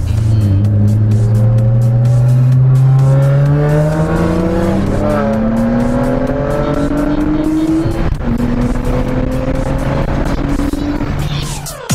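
A car engine accelerating hard, its pitch climbing steadily for several seconds, then dropping at an upshift about eight seconds in and climbing again.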